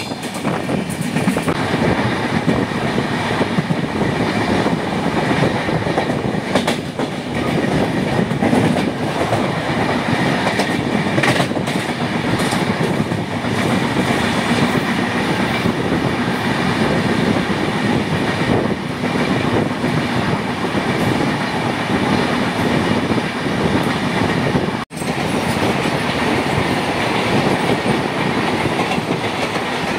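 A passenger train running at speed, its wheels clattering over the rail joints in a steady rush of rail noise, heard from the open doorway of a moving coach. The sound drops out for an instant near the end.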